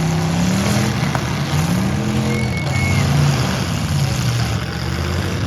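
Full-size pickup truck engines running in a demolition derby, with one engine revving up and dropping back about two seconds in, over a steady noisy din.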